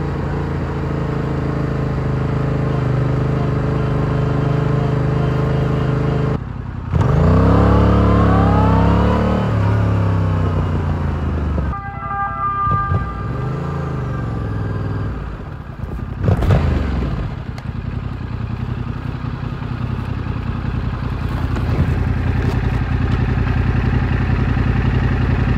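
Stock exhaust of a 2022 Yamaha R7's parallel-twin engine running at low revs. About seven seconds in the revs rise and fall in a short pull, and there is another brief rev a little past the middle before it settles back to a steady run.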